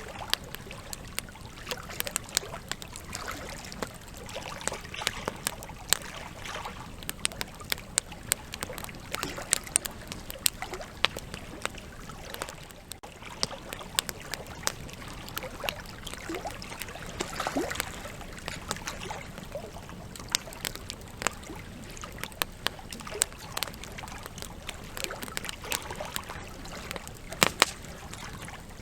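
Campfire logs burning with a steady soft hiss and irregular sharp crackles and pops, a few louder snaps near the end.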